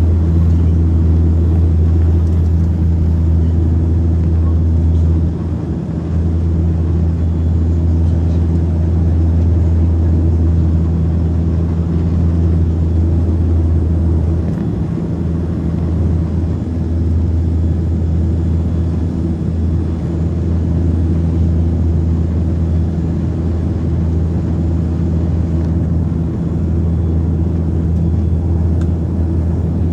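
Saab 340's twin turboprop engines and propellers droning steadily, as heard inside the cabin: a deep, even hum with brief dips about five and fifteen seconds in.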